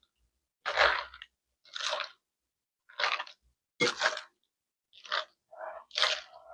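Tongs tossing a chopped iceberg lettuce salad in dressing, crisp leaves crunching in short bursts about once a second.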